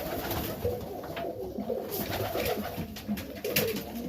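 Serbian Highflyer pigeons cooing, several short wavering coos from more than one bird overlapping, with a few brief knocks among them.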